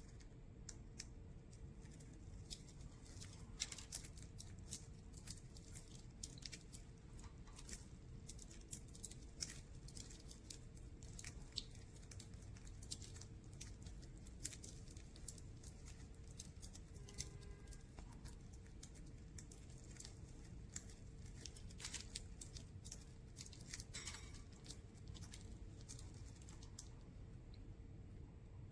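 Budgerigars pecking at spray millet, making faint, irregular small clicks and crackles as the seeds are cracked, over a low steady hum.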